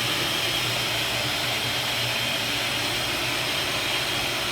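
Kärcher WD5 wet & dry vacuum cleaner running steadily: a constant rushing whoosh of its motor and airflow, with a low hum underneath.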